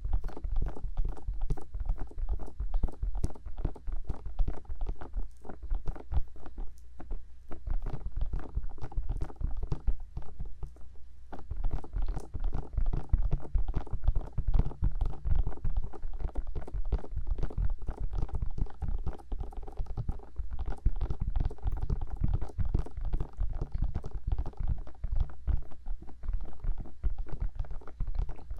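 Bare fingertips tapping and rubbing on the silicone ears of a 3Dio binaural microphone: fast, continuous soft taps that boom close in the mic, a little lighter between about six and eleven seconds in.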